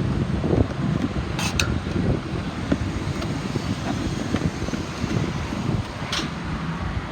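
Low steady rumble of wind on the microphone, with two short sharp clicks: one about one and a half seconds in and one about six seconds in.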